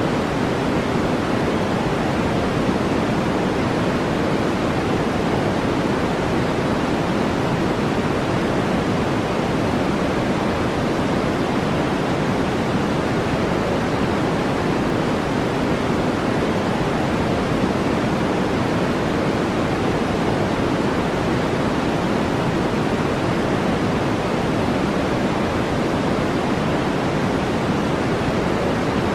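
Steady brown noise: an even, deep-toned hiss with no breaks or changes.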